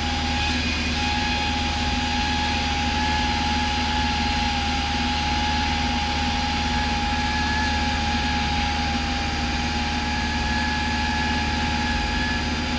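Cessna 172's piston engine and propeller droning steadily in flight, heard through the cockpit intercom, with a thin steady whine above the drone.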